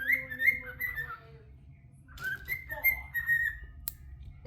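Pet bird whistling two short phrases of notes, the second starting a little over two seconds in. A single click near the end.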